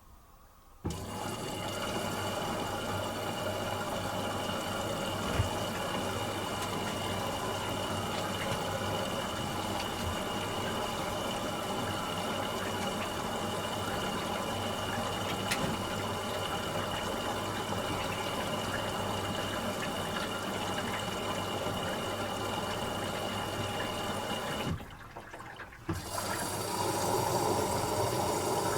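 Asko W6098X washing machine taking in water: the inlet valve opens suddenly about a second in and water runs in steadily, with a thin steady whine over it, until it cuts off abruptly near the end. A couple of seconds later a steady motor sound starts up in the machine.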